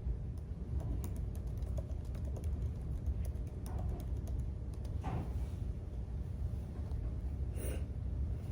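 Typing on a computer keyboard: a run of quick key clicks for the first few seconds, then a few scattered keystrokes, over a steady low room hum.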